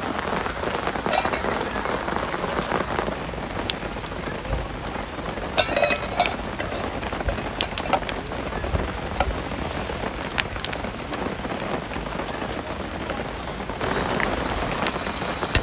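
Steady heavy rain falling, with scattered sharp drop ticks and a brief cluster of clicks around the middle.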